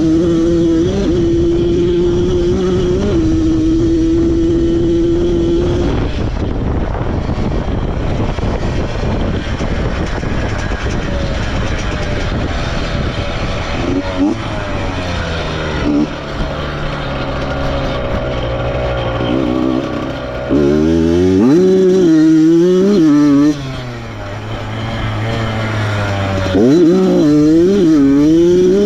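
Motorcycle engine running while riding, holding a steady note at first, then buried under a broad rush of wind noise. In the last third the engine pitch rises and drops again and again as it revs and shifts through the gears.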